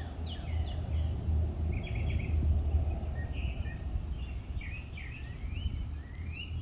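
Wild songbirds chirping: many quick downward-sweeping chirps and short buzzy notes, over a steady low rumble.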